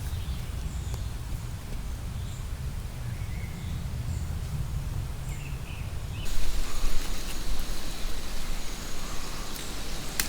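Outdoor ambience: small birds chirping over a low steady rumble. About six seconds in the sound changes abruptly to a louder, steady hiss of rain.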